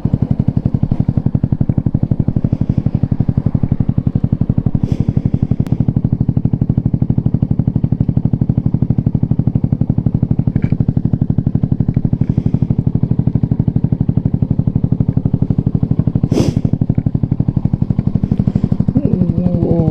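Yamaha TW225's air-cooled single-cylinder engine idling steadily with an even, rapid pulse. A single sharp click about three-quarters of the way through.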